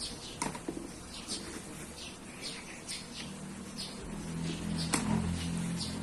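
Small birds chirping repeatedly, two or three short high chirps a second. A couple of sharp clicks, one near the start and a louder one near the end, while a low steady hum swells in the second half.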